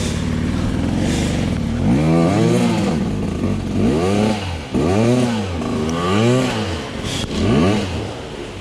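Dirt bike engine revving up and falling back again and again as the throttle is worked, about five swells in pitch over the last six seconds.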